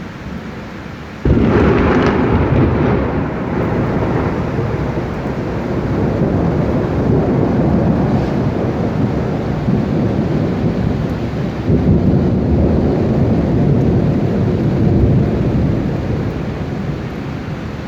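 A thunderclap cracks about a second in and rolls on as a long, loud rumble of thunder. The rumble swells again a little past the middle and eases off near the end, with rain-like hiss beneath.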